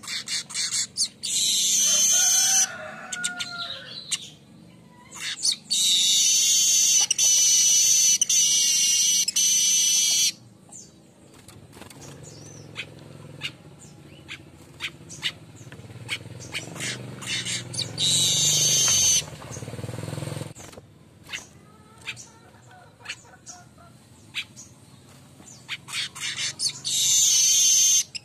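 Streaked weaver (manyar kembang) singing in loud, high, buzzy bouts: four bursts, the longest about five seconds, with sharp ticking chatter between them.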